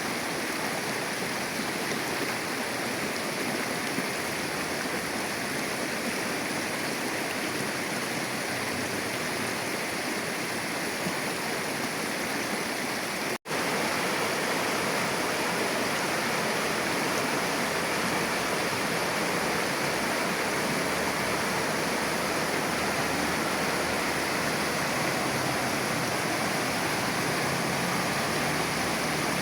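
Water of a shallow river flowing, a steady even rush. It cuts out for an instant about halfway through and comes back slightly fuller and deeper.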